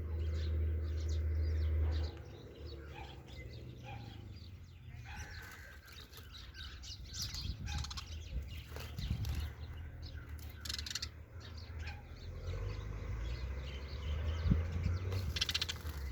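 Sparrows chirping in short, scattered calls, with a denser run of calls near the end. A low steady hum underneath stops about two seconds in.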